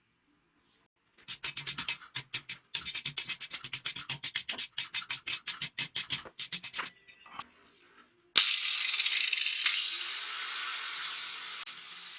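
Rapid back-and-forth hand scrubbing or filing on the rusted hatchet, about five strokes a second, for several seconds. After a short pause a power tool starts abruptly and runs steadily, with a high whine that rises and then levels off.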